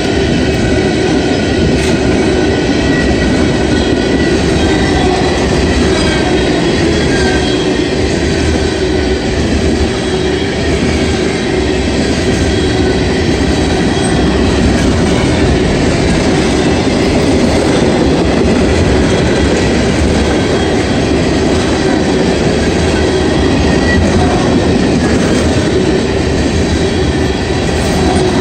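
A freight train of tank cars rolling past at close range: a loud, steady rumble of steel wheels on the rails.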